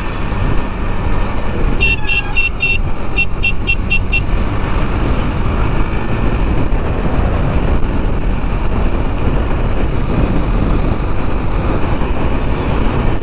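Steady wind rush and motorcycle engine noise while riding at highway speed, with a rapid run of short, high horn toots about two seconds in, around nine beeps in two seconds.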